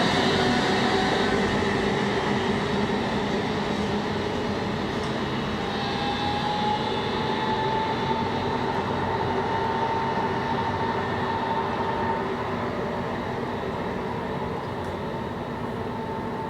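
Electric tram running on rails, the whine of its traction drive slowly rising in pitch over steady wheel and rail noise, gradually fading toward the end.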